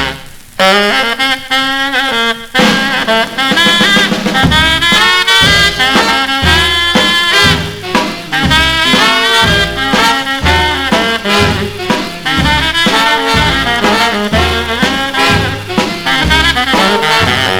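Instrumental break of an early-1950s rhythm and blues record: a saxophone and brass horn section plays over a swing rhythm with a walking bass. After a brief gap at the start, the horns lead alone until the full band with bass comes in about two and a half seconds in.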